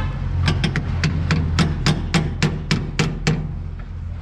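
A hammer striking metal in a quick, even series, about a dozen blows at roughly three a second, stopping near the end. A steady low hum runs underneath.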